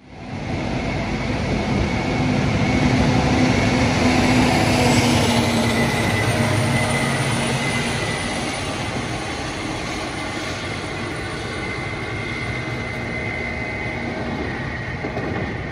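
A train running past on the rails: a steady rumble with faint held tones that builds over the first couple of seconds, peaks around four to five seconds in, then eases to a steady level.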